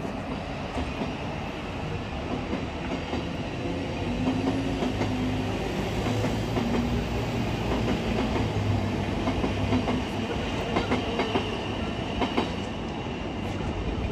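Passenger train running through a station: a steady rumble with a low motor hum, and wheels clicking over rail joints in a run of clicks late on.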